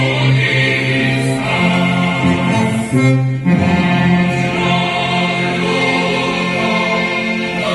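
A choir singing in held, sustained notes that change about once a second, with a short break about three seconds in.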